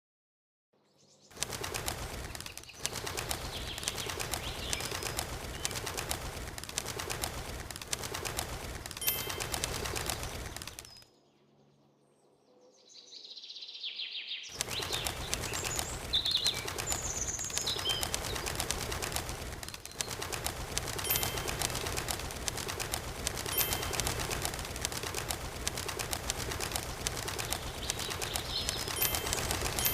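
A small bird flapping its wings, a dense rapid fluttering that stops for a few seconds near the middle, with a few short high chirps around then.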